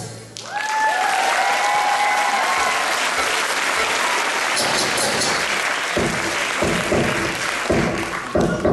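Audience applauding after the music stops, with a couple of high gliding cheering calls in the first seconds. About six seconds in, sharp pitched tabla strokes start again over the fading applause.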